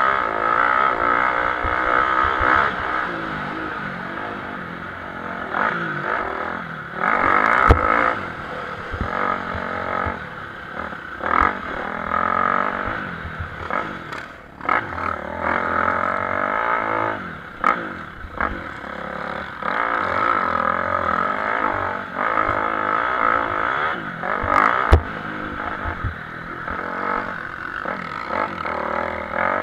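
Motocross bikes racing, their engines revving up and down with the throttle and gear changes. A few sharp knocks stand out, the loudest about 8 and 25 seconds in.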